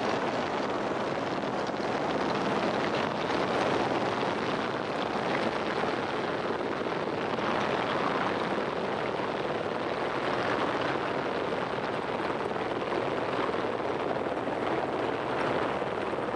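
Steady, even rushing noise of a running vehicle with wind on the microphone.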